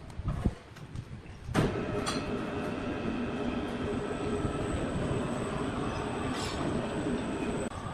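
Sawmill saw cutting a red oak log: after a few knocks, the cut starts suddenly about a second and a half in as a steady, loud mechanical run with a ringing, squealing whine of several held tones, easing slightly near the end.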